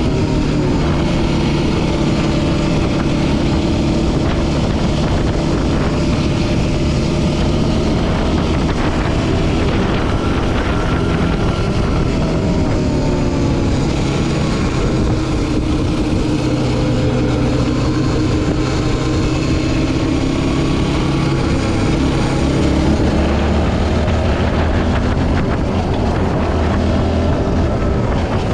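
Yamaha Raptor 700R quad's single-cylinder four-stroke engine running steadily as it rides, its pitch drifting slowly up and down with the throttle.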